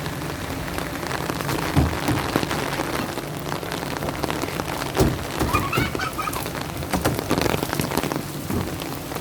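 Steady rain falling on hard surfaces, with many sharp drop hits and a couple of louder knocks, about two and five seconds in.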